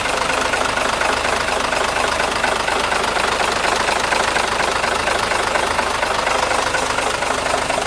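Mitsubishi 6D17 inline-six diesel engine of a 1998 Mitsubishi Fighter dump truck idling steadily.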